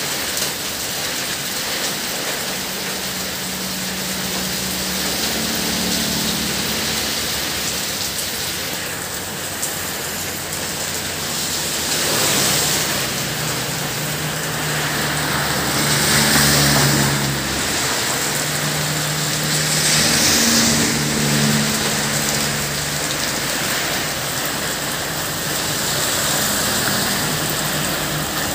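Heavy wind-driven rain pouring steadily onto a paved road and wet ground, with several louder swells of hiss along the way.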